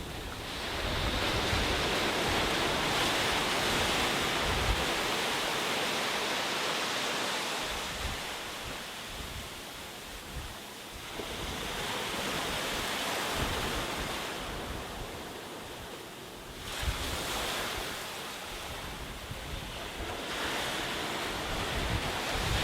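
Sea waves breaking and washing up a beach, the surf swelling and ebbing every few seconds, with wind rumbling on the microphone.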